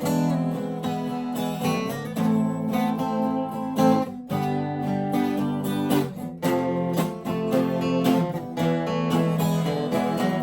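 Acoustic guitar playing steadily in an instrumental jam, strummed chords mixed with picked notes.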